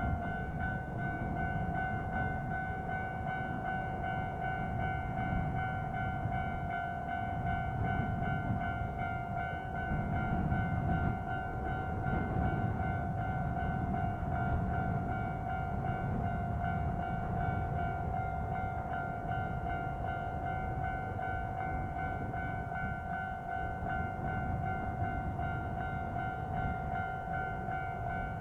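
Kintetsu 1201 series electric train running at a steady pace: a continuous low rumble of running noise with a constant high-pitched whine over it.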